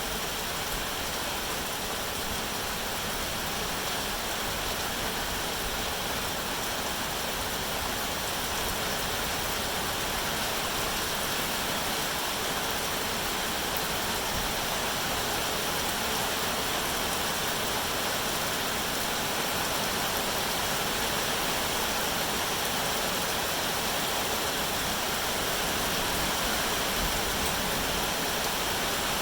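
Rain falling steadily: an even rushing noise with no single drops standing out and no change in level.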